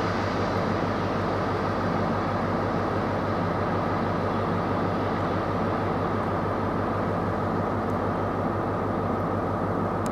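Trains running through the station: the rumble of a train pulling away dies down in the first couple of seconds, over a steady, fast low throb.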